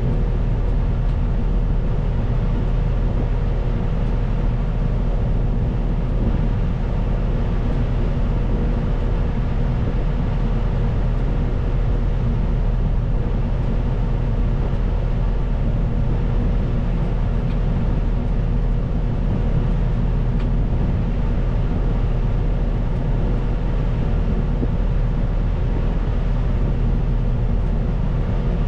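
CAT 926M wheel loader's diesel engine running steadily, with a constant whine held over the engine drone.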